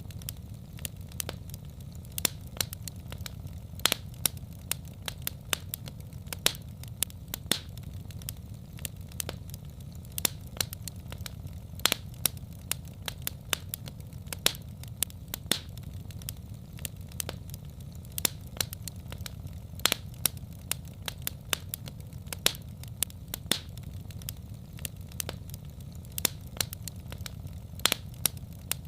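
Wood fire crackling: irregular sharp pops and snaps several times a second over a steady low rumble of the flames.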